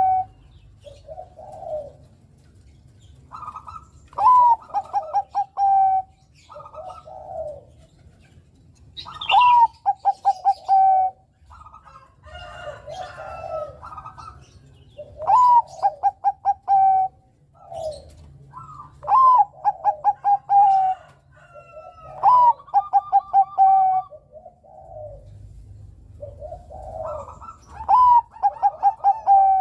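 Perkutut Bangkok (a Thai-bred zebra dove) singing its cooing song over and over. Each phrase is a rising note, a quick stutter of short notes, then a held lower coo, and comes every four to six seconds. Softer, shorter coos fall between the phrases.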